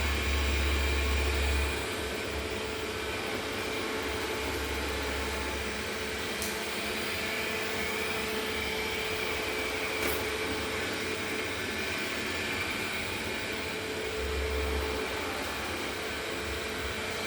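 A steady mechanical whirring hum with a faint high whine, with a low rumble that comes and goes and a couple of sharp clicks.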